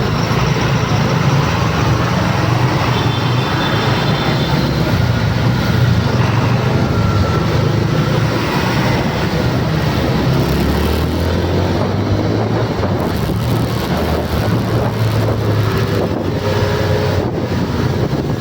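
Loud, steady vehicle noise: a motor hum under a wash of road or traffic noise, the hum dropping lower in pitch about ten seconds in.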